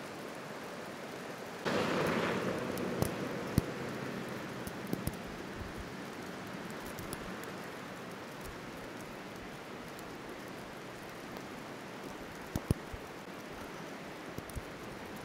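Steady road and tyre noise inside a moving car on a snowy highway. About two seconds in a louder rush starts and fades over a few seconds, and scattered sharp ticks are heard.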